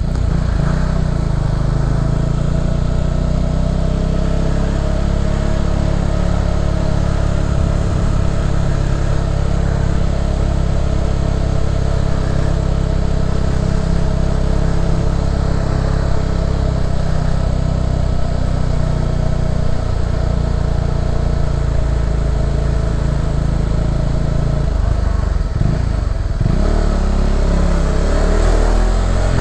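Motorcycle engine running steadily under way, heard from the rider's seat. Near the end the engine note drops briefly and picks up again.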